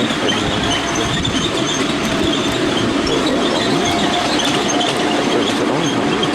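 Ride-on miniature railway train running along the track: a steady rumble and clatter of wheels on the rails, with faint thin high tones over it.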